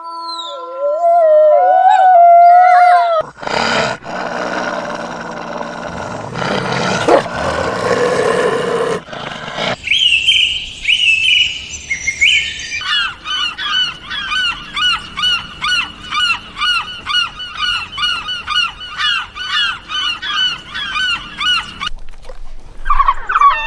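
A run of loud animal calls, likely birds: honking, gliding calls first, then a rougher, noisier stretch of calling, then rapid chirping calls repeated about two to three times a second for most of the second half, which stop shortly before the end.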